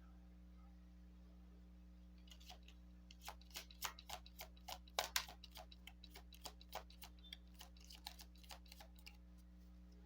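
Soft, irregular clicks and taps of a Lenormand card deck being handled, starting about two seconds in and coming several a second, over a faint steady hum.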